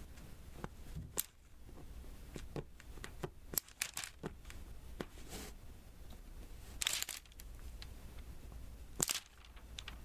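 Diamond painting being worked: small resin drills tapped and pressed onto the sticky canvas, giving a scatter of light clicks. Two brief, louder sticky rasps come about seven and nine seconds in.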